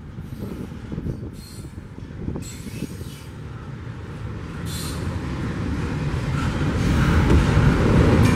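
A freight train rolling past with a steady rumble that grows louder toward the end, and brief high-pitched wheel squeals now and then.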